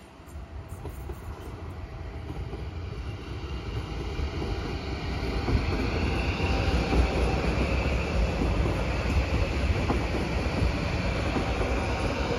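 HŽPP multiple-unit passenger train approaching and passing close by: wheels rumbling on the rails, growing louder over the first five seconds or so and then staying loud, with a high whine riding above the rumble.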